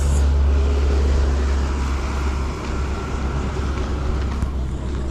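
Road traffic going by close at hand: a vehicle's engine and tyre noise, a little louder for the first two seconds or so, then easing, over a steady low rumble.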